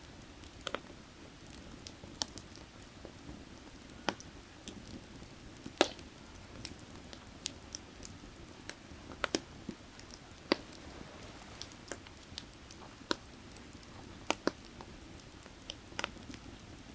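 Burning firewood crackling, with irregular sharp pops over a steady low rush of creek water.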